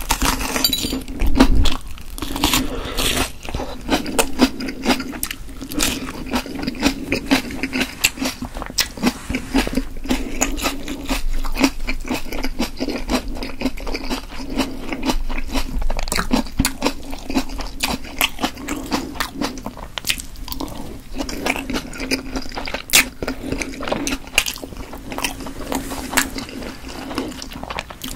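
Close-miked eating sounds: a crunchy bite into a red pepper about a second in, then continued chewing of chewy potato dumplings, full of small sharp mouth clicks.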